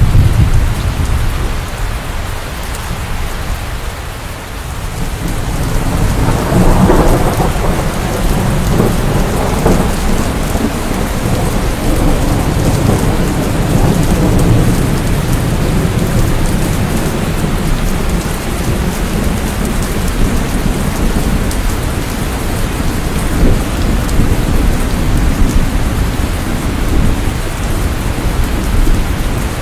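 Steady rain falling with thunder rumbling: a roll dies away in the first few seconds, then a louder peal breaks about seven seconds in and keeps rolling as low rumbling.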